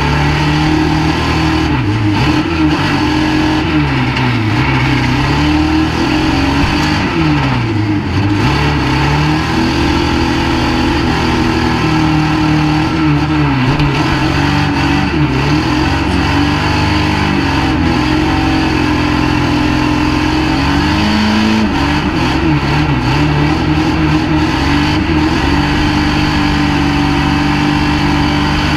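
Banger racing car's engine heard from inside its stripped cockpit, revving down and up again and again, then running more steadily with slow rises and falls in pitch as the car drives around the track.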